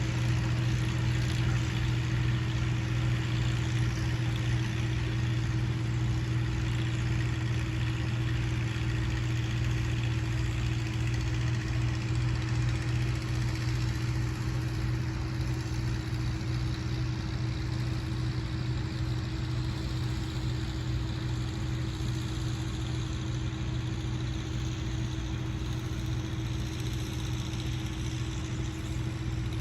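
Tractor engine running steadily with a low, even drone that holds the same pitch throughout.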